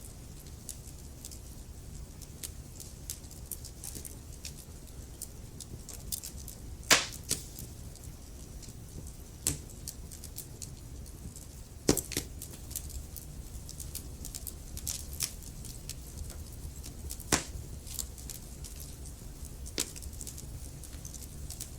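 Wood fire in a fireplace: burning logs crackling with irregular sharp pops over a low steady rumble of the flames, the loudest pops about 7, 12 and 17 seconds in.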